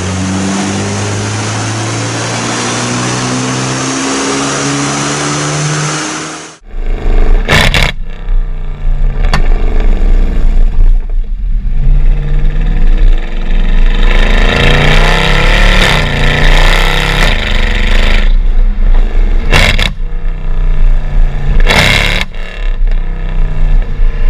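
Ford Focus ST's turbocharged four-cylinder engine pulling at full throttle on a chassis dyno, its pitch climbing steadily over a loud hiss of rollers and tyres. About six seconds in, an abrupt change to another car's engine revving hard, rising and falling, with a few sharp cracks.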